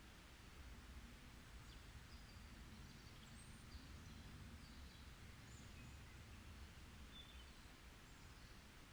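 Faint forest ambience: a scattering of short, distant bird chirps and whistles over a low, steady background noise.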